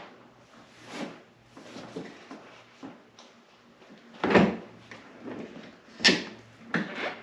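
Scattered knocks and clunks of parts and tools being handled and rummaged through, with two louder knocks about four and six seconds in, over a faint steady low hum.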